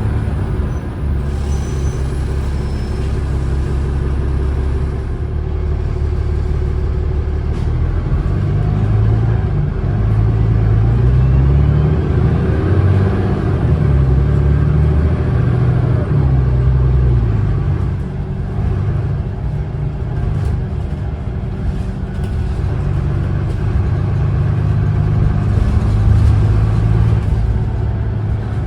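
Cummins ISLe diesel engine of a 2012 Alexander Dennis Enviro500 double-decker bus pulling hard. The engine note climbs and drops several times in the middle as the ZF six-speed automatic gearbox shifts up, then runs steadier near the end.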